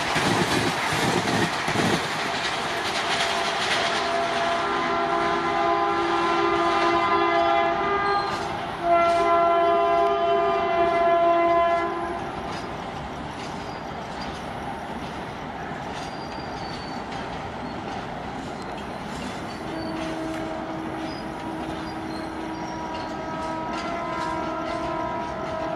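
ICF express coaches rushing past at speed with rattling wheels, then a locomotive horn sounding one long blast that gets louder about nine seconds in and stops about twelve seconds in. Later a fainter horn sounds from an approaching train.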